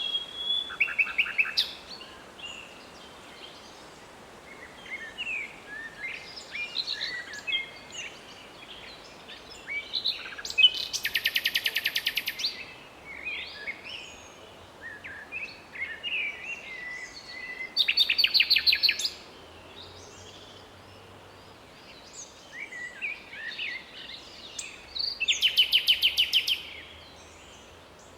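Common nightingale singing: varied phrases of short whistles and chirps, broken four times by a loud burst of fast, rapidly repeated notes lasting a second or two.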